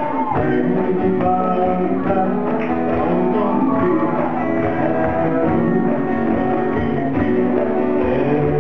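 Live pop-rock music: a singer over a band with guitar, amplified and steady in loudness.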